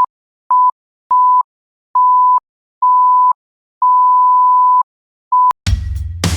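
A series of seven electronic beeps at one steady pitch, some short and some long, the longest about a second. Music with a drum kit starts near the end.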